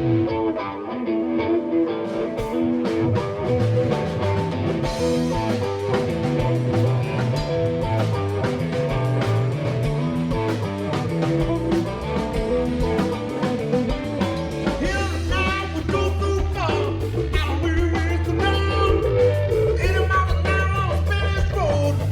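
Live blues-rock band playing an instrumental passage: electric guitar over bass and drums. The drums come in about two seconds in, and over the second half the guitar line slides and bends in pitch over a heavy steady bass.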